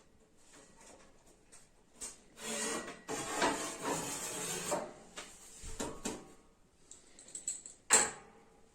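A thin, heat-warped stove plate being worked loose and pulled out of a stove-fireplace: irregular scraping and rubbing for a couple of seconds, a few clicks, then one sharp knock near the end.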